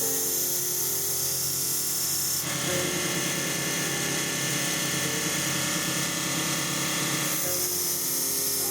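A small electric grinder or sharpener running with a steady high whine. From about two and a half seconds in until near the end, a knife blade is held against it, adding a rougher grinding hiss as the edge is sharpened.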